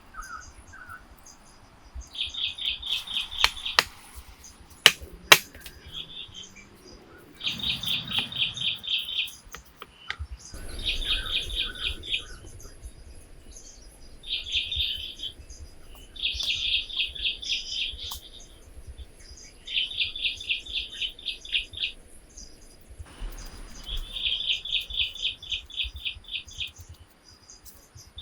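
A bird calling in repeated bursts of rapid pulsing notes, each burst lasting one to two seconds and coming about every three seconds, with a couple of sharp clicks about five seconds in.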